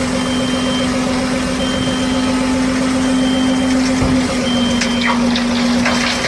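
Electronic truck sound effect from a toy dump truck: a steady hum with a high beep repeating about every second and a half, like a reversing alarm. It stops just before the end, with a few clicks shortly before.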